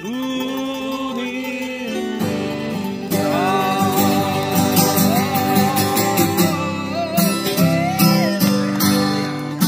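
Acoustic guitar strummed steadily while a group sings along in long held notes, the voices swelling about three seconds in.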